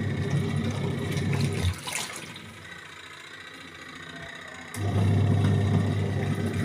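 Washing machine wash motor humming as it churns the water and laundry, stopping about two seconds in and starting again about three seconds later, the pause-and-restart of the wash cycle changing direction; water sloshing in the tub throughout.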